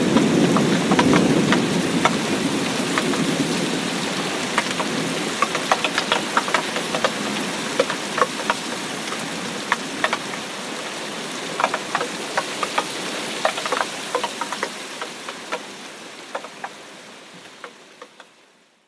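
Steady rain with many individual drops striking a surface close by. The low rumble of thunder dies away in the first few seconds. The rain then fades out gradually to silence near the end.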